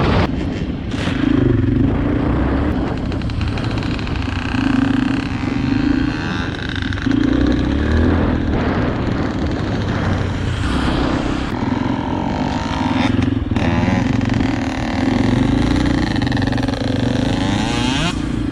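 Dirt bike engine running as the bike is ridden, its note rising and falling with the throttle.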